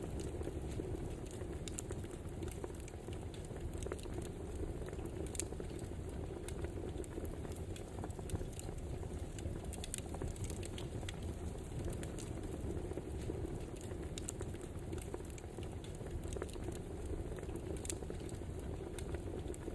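Crackling wood fire: a steady low rush with scattered sharp pops and snaps.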